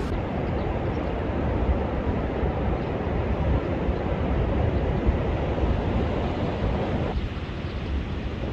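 Storm-driven surf breaking on a sandy beach under a high-wave advisory, a steady rushing wash with wind buffeting the microphone. About seven seconds in the sound turns duller.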